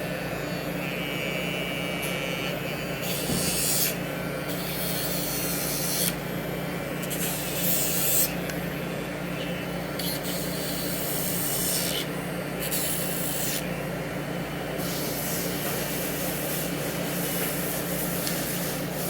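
Show Tech cordless pet nail grinder running on its higher setting with a steady motor hum. The grinding noise comes and goes about half a dozen times as the bit is pressed against a dog's nail and lifted off.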